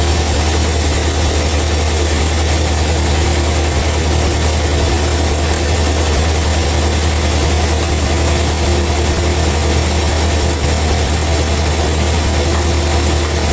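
A heavy engine running steadily with a deep, unbroken hum and no change in speed.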